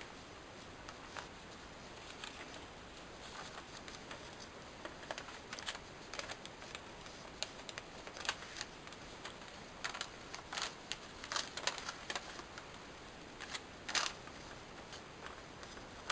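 A sheet of paper being folded and creased by hand into an origami plane: irregular soft crackles and rustles, few at first and busier in the second half, over a steady faint hiss.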